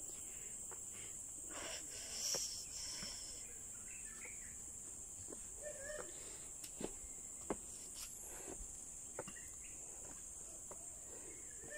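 A steady, high-pitched drone of insects chirping in the evening, with scattered faint clicks and knocks and a few faint chirps.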